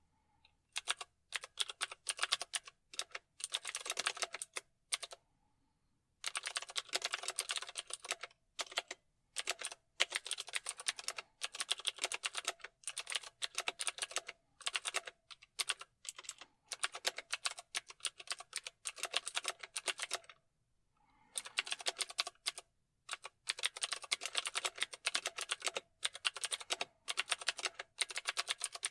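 Typing on a computer keyboard: fast runs of keystroke clicks, broken by brief pauses about five seconds in and again about twenty seconds in.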